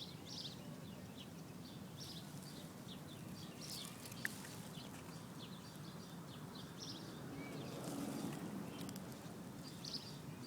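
Outdoor background ambience: a steady faint hiss with small birds chirping again and again.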